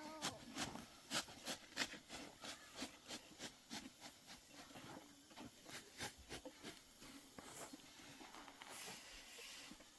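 Faint, irregular light clicks and taps, a few a second, over quiet background noise.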